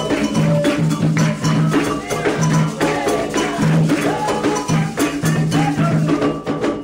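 Candomblé ritual music: atabaque hand drums played in a steady, fast rhythm with rattles and singing voices over them.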